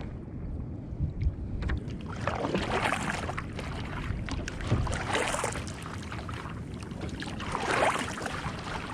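Kayak paddle strokes swishing and splashing through the water, rising and falling about every two and a half seconds, over a low rumble of wind on the microphone, with a few small knocks and drips.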